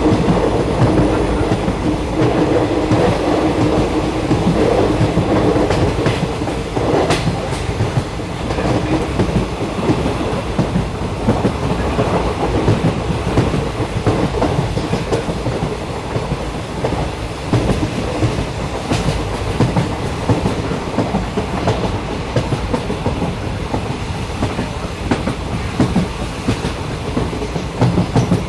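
Passenger train in motion, heard from inside the carriage: a steady rumble of wheels on track with clickety-clack over rail joints. A hum fades in the first few seconds, and a couple of sharp clicks come about seven and nineteen seconds in.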